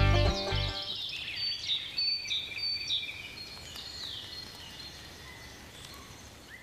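Plucked-string theme music ends under a second in, leaving birds chirping: short high whistles and quick downward-sweeping calls repeating, fading away toward the end.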